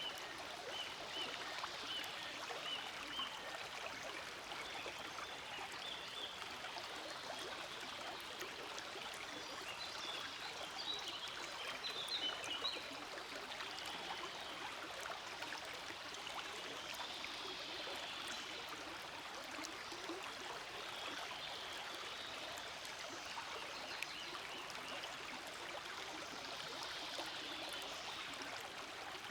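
Forest stream flowing steadily, an even rush of water, with a few faint short high chirps near the start and again about halfway through.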